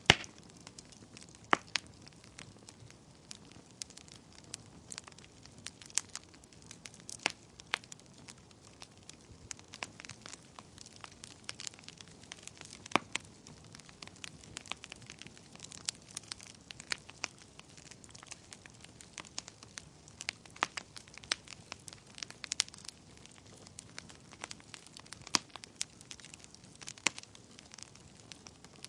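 Wood fire burning in a fireplace: irregular sharp pops and snaps over a low steady hiss, with the loudest pop right at the start.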